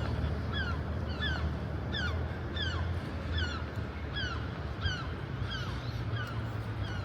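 A bird calling over and over in short falling notes, about two a second, fading out near the end, over a low steady hum.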